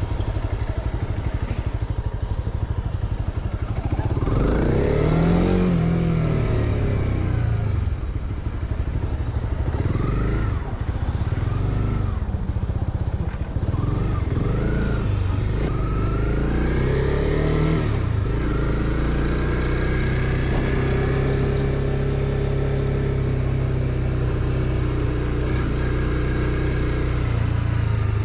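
Motorcycle engine accelerating and easing off several times, its note rising and falling, then holding a fairly steady speed through the last third.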